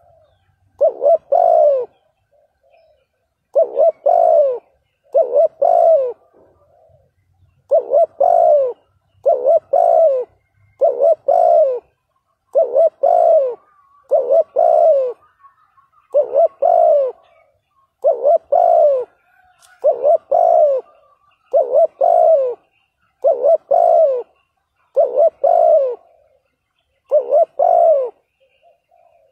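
Spotted dove cooing: short two-part coos repeated steadily, about one every one and a half to two seconds. This is the rapid 'gù' cooing used as a lure call to provoke wild spotted doves.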